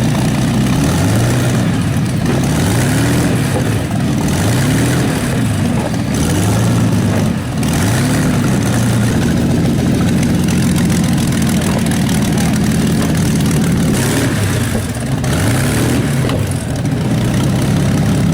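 The 1911 Fiat S76's 28.4-litre four-cylinder engine running loud and being revved over and over, its pitch rising and falling back every second or two.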